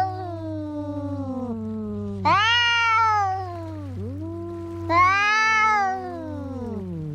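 Two cats yowling at each other in a fighting standoff: long drawn-out wails that rise and fall in pitch, overlapping at times, with louder calls about two seconds in and again about five seconds in. A steady low hum runs underneath.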